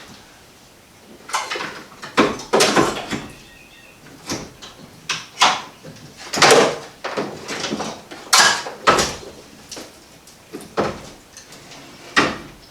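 Irregular clunks, knocks and clatters of hand tools and metal parts being worked on in a car's engine bay, about a dozen sharp hits spread unevenly, a few with a short metallic ring.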